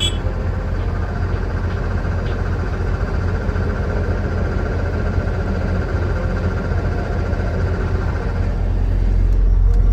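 A motor vehicle's engine running steadily with a low rumble, growing louder near the end.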